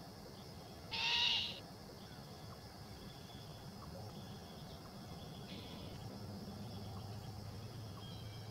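Great horned owl fledgling giving a short, harsh, hissing screech about a second in, the raspy begging call of a young great horned owl, with a fainter one around five and a half seconds in.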